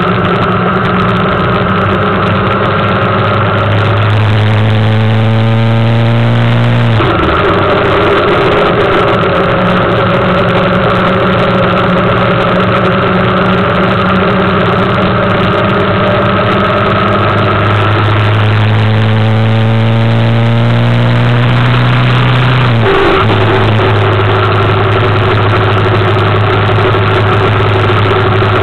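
Suzuki GSX750F motorcycle's inline-four engine under way at steady revs. Twice the revs climb and then drop sharply at an upshift, about a quarter of the way in and again about three-quarters through.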